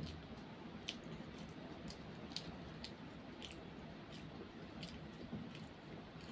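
A child chewing Maggi instant noodles, soft wet chewing with scattered short sharp clicks, about one or two a second.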